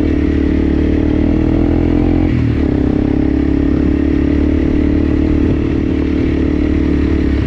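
Enduro motorcycle engine running steadily under way, with a brief dip and change in pitch about two and a half seconds in.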